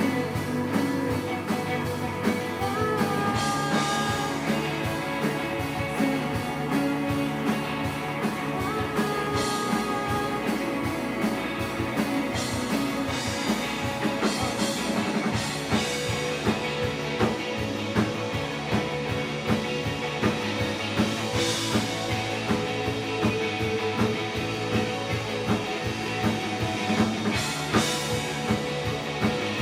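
Rock band playing live, an instrumental passage of guitar over bass and drum kit. The drum beat comes out more clearly about halfway through.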